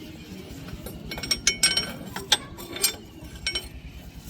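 Metal parts and tools clinking against each other during hand work on a tractor, with a quick run of sharp ringing clinks a second or two in, over a steady low rumble.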